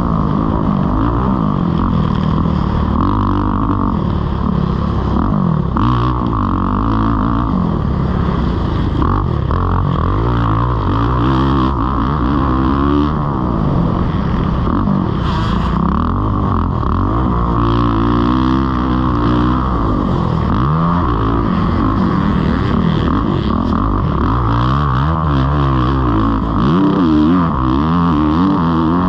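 Kawasaki KX450's four-stroke single-cylinder engine as the dirt bike is ridden around a motocross track, its pitch climbing and dropping over and over as the throttle is opened and closed and the gears change.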